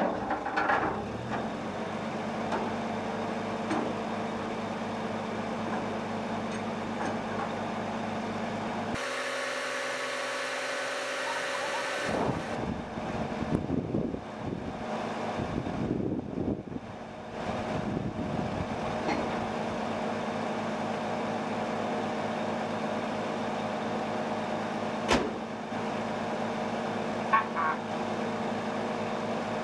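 1946 Dodge truck's 236 cubic-inch flathead six-cylinder engine catching on the hand crank right at the start and settling into a steady idle. In the middle, a few seconds of irregular clatter and knocks cover the engine before the steady idle returns, and a single sharp click comes near the end.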